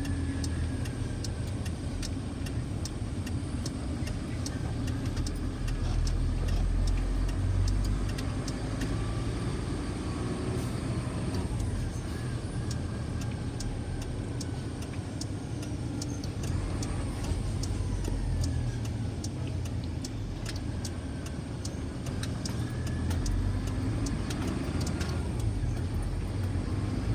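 Steady low engine and road rumble heard from inside a truck's cabin while driving, with scattered light clicks and rattles.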